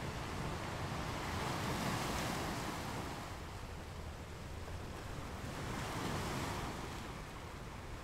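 Ocean waves breaking on a beach: the surf swells twice, peaking about two seconds in and again about six seconds in, over a steady wash of water.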